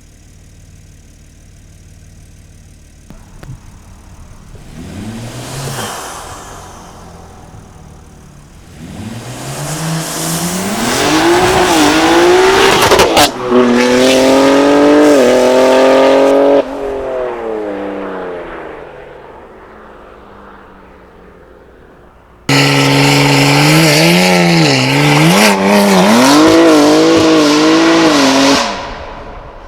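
BMW G80 M3's twin-turbo inline-six through a titanium Valvemaster exhaust: a launch, the engine pitch climbing hard with a sharp crack at a gear change, then fading as the car pulls away. After a cut, a burnout: revs held high and bouncing over tire squeal, stopping abruptly near the end.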